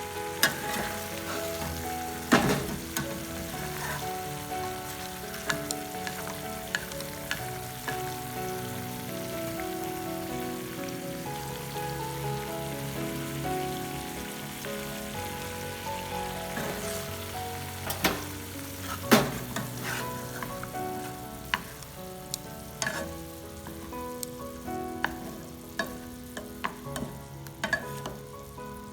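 Quail eggs sizzling as they fry in a pan, stirred, with sharp clicks of the utensil against the pan, the loudest a couple of seconds in and twice about two-thirds through. Soft background music plays underneath.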